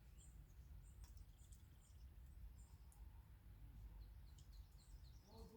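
Faint, scattered chirps of small birds over a steady low outdoor rumble, with a quick run of short chirps near the end.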